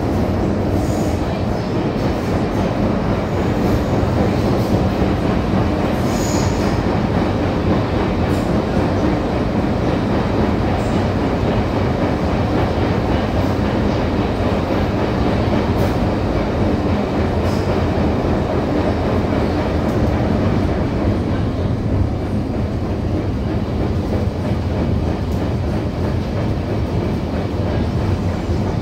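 Disneyland Resort Line train running along the line: a steady rumble of wheels on rail with some clatter, and a couple of brief, faint high squeaks early on.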